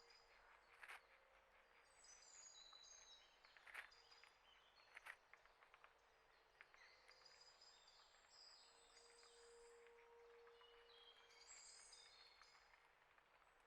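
Faint small-bird chirps and twittering, with three sharp clicks or taps in the first five seconds.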